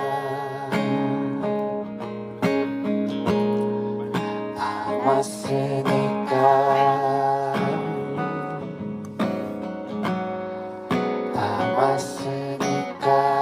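Acoustic guitar strumming chords of a slow song, played live, in an instrumental stretch between sung lines.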